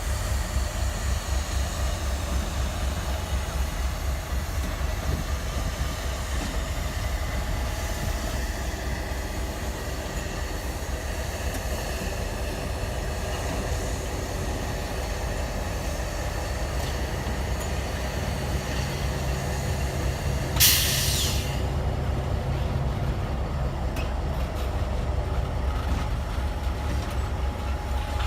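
Freight train rolling by with a steady low rumble of railcars. About three quarters of the way through, a short, loud hiss of air cuts in, as from an air brake.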